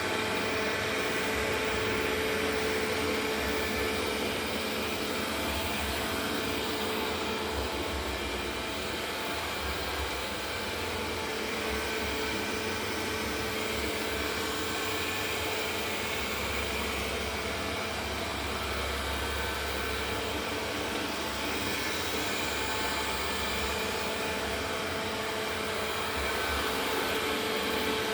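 A steady mechanical whir from a running motor, with a constant hum and no changes in level.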